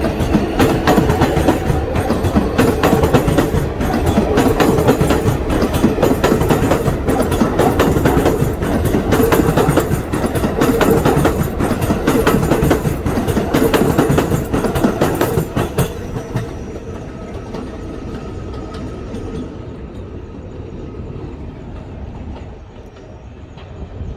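New York City Subway 7 train running on elevated track, wheels clattering over the rail joints. About sixteen seconds in the noise drops to a quieter, duller rumble.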